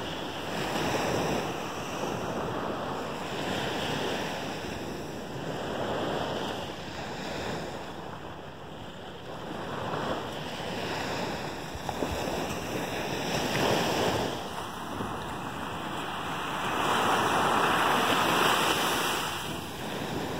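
Gulf surf breaking on the beach, a steady rush that swells and falls back with each wave every few seconds.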